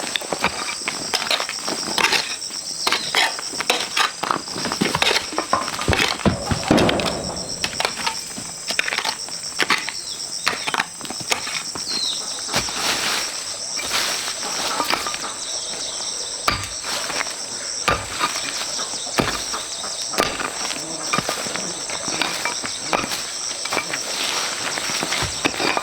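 Steady high-pitched drone of insects, with frequent knocks, clatters and footsteps from hands-on outdoor work throughout, thickest about six to seven seconds in.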